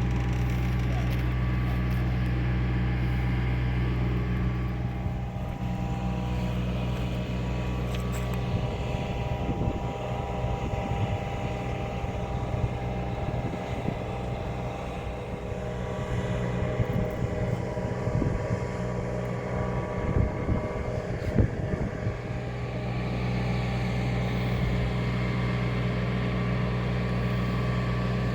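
Large diesel engine running steadily with a low hum. The hum weakens through the middle, where irregular rumbling and a few knocks come through, and returns strongly near the end.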